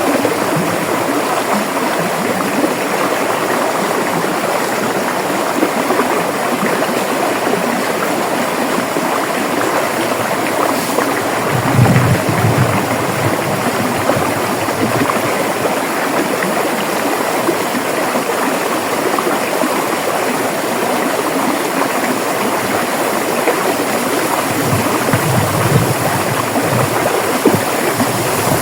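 River water flowing over rocks in a steady rush, with brief deeper gurgling surges about 12 s in and again around 25 s.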